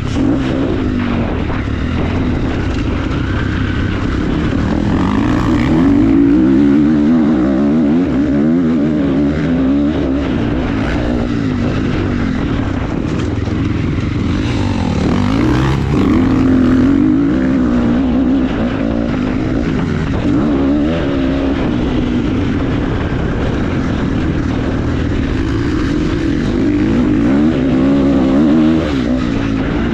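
Motorcycle engine running while being ridden, its pitch rising and falling over and over with the throttle.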